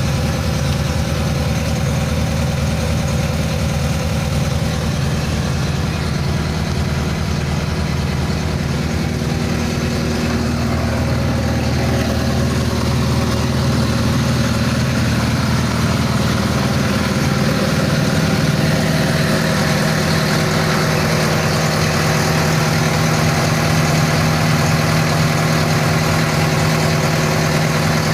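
A squid fishing boat's engine running steadily at idle, with a slight change in its note about ten seconds in.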